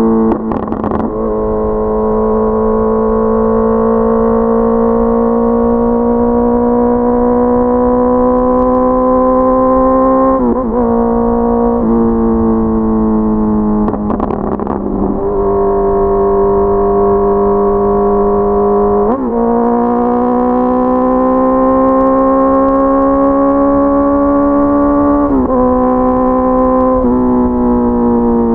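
Honda CBR650R inline-four engine pulling under throttle on the road. Its note climbs slowly, then drops abruptly about five times at gear changes.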